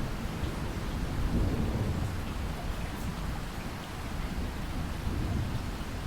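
Steady rain falling, with a low rumble of thunder underneath that swells about a second in.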